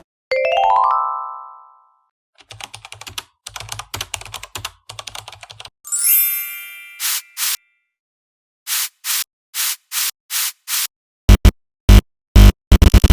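A run of dubbed comedy sound effects: a quick rising tone, then a couple of seconds of rapid clicking, a ringing ding, and a string of short sharp hits that get louder and heavier near the end.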